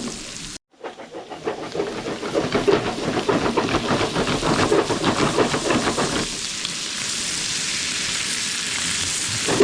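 Lobster tails and steaks frying in garlic butter: a crackling sizzle that settles into a steadier, higher hiss about six seconds in.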